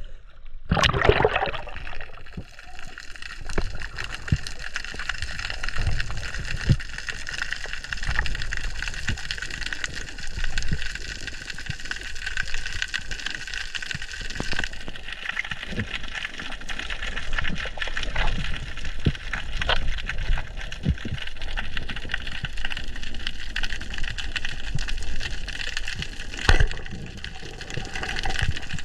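Underwater water noise picked up through an action camera's housing: a loud rush about a second in, then a steady hiss and crackle with low rumbling and scattered knocks.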